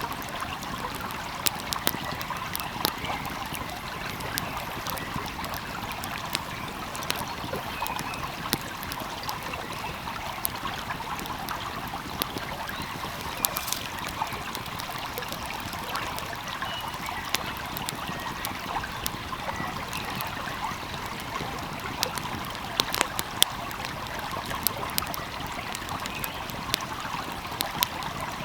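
A flowing stream's steady rush, with a wood fire crackling over it in scattered sharp pops and snaps, a few louder ones about halfway through and near the end.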